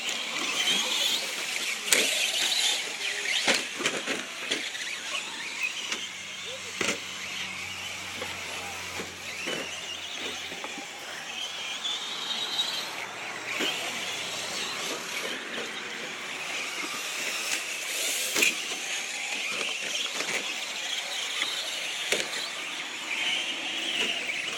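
Radio-controlled short-course trucks racing: a high whine from their motors that rises and falls as they speed up and slow down. Scattered sharp clicks and knocks come from the trucks hitting bumps and each other.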